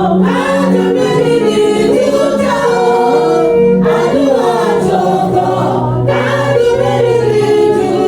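Church choir and congregation singing a Yoruba gospel chorus together, in sung phrases with a brief break about halfway through.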